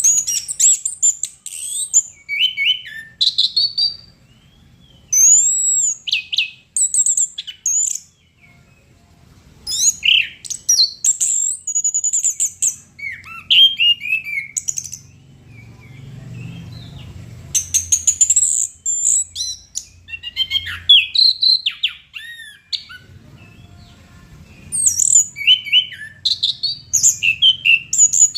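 Orange-headed thrush (anis kembang) singing loudly in bouts of a few seconds: varied high whistles, swooping notes and rapid chips, with short pauses between bouts.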